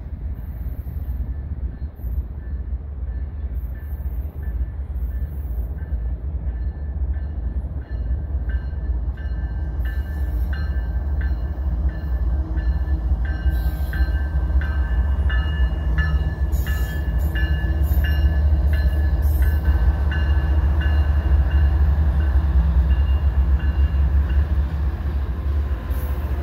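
Trains passing: a CPKC double-stack freight and, by the end, an EXO commuter train going by on the nearer track. A low, steady rumble grows louder about halfway through, with repeated clicks of wheels over rail joints and intermittent high-pitched wheel squeal.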